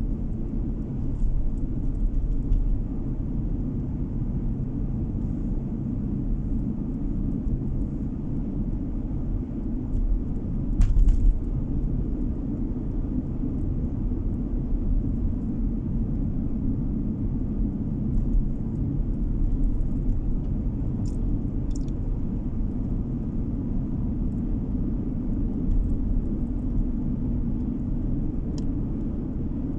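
Steady low rumble of a car driving, road and engine noise heard from inside the cabin, with a brief thump about eleven seconds in.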